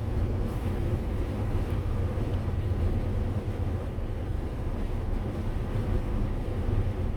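Motorhome driving on the road: a steady low rumble of engine and tyre noise that holds even throughout.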